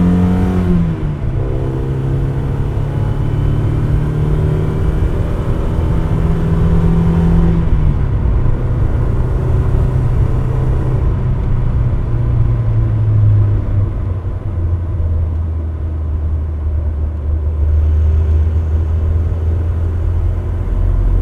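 Mazda MX-5 NA Miata driving, its four-cylinder engine note stepping down in pitch a few times, with a faint thin steady whine above it. The whine is the one that appears around 2,000 rpm in low gears.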